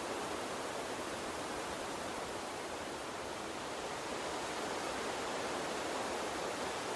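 A small water stream running steadily: an even rushing hiss with no distinct splashes, growing a little louder about four seconds in.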